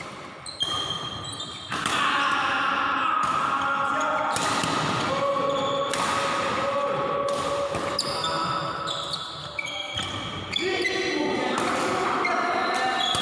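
Badminton rally in an echoing indoor hall: rackets striking the shuttlecock every second or so, with background voices.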